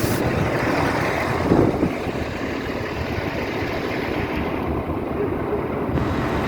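CAT motor grader's diesel engine running steadily while the operator works the hydraulic control levers.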